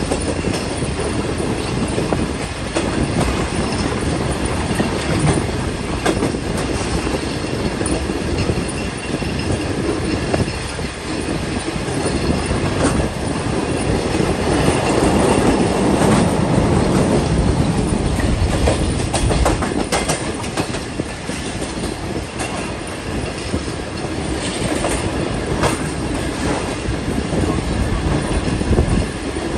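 Passenger train running at speed on the track: a steady rumble and rattle of the coaches, with sharp clicks from the wheels passing over rail joints, swelling a little around the middle.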